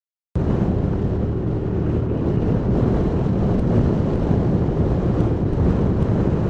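Wind buffeting the microphone over the steady noise of surf, cutting in abruptly after a moment of silence.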